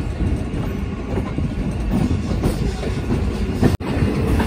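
MEMU passenger train rolling out of a station, with wheels rumbling and clicking over the rails, heard from the coach's open doorway. The sound breaks off for an instant near the end, where the recording cuts.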